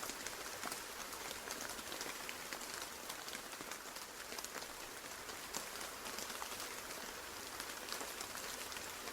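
Steady rain: an even hiss of rainfall with many separate drops striking a surface as sharp little ticks.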